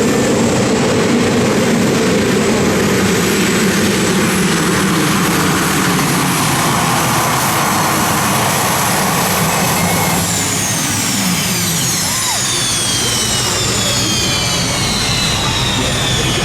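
Super Modified pulling tractor running its engines at full power during a pull. About ten seconds in the power drops and a high whine falls steadily in pitch as the engines wind down.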